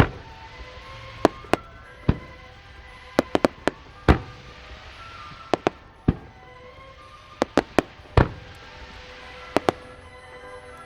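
Aerial fireworks bursting: irregular volleys of sharp bangs, with heavier booms about every two seconds and a crackling hiss between them. Music plays underneath.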